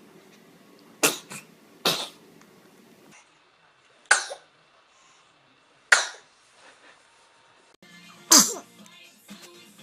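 A baby sneezing five times, each a short sudden burst, one to two and a half seconds apart.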